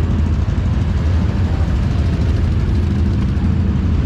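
Off-road vehicle engine running steadily under way, a constant low rumble with road and wind noise over it.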